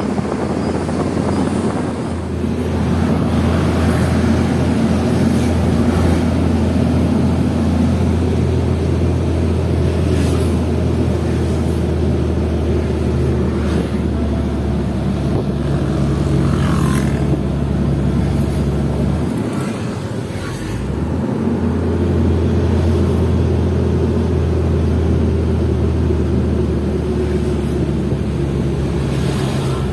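Loaded Hino FL 260 JT truck's six-cylinder diesel engine running steadily under load at low speed. Its note drops briefly about twenty seconds in, then picks up again.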